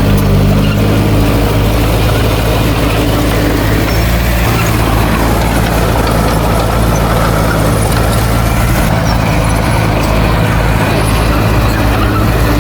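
Heavy earthmoving machine's diesel engine running steadily, a low, even engine note with no sharp revving.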